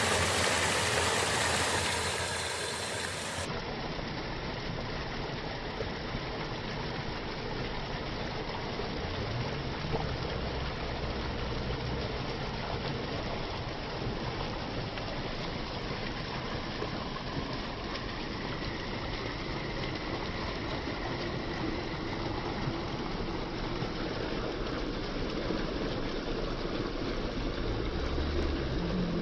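Water running steadily, a continuous even noise like a stream flowing. It is a little brighter in the first few seconds.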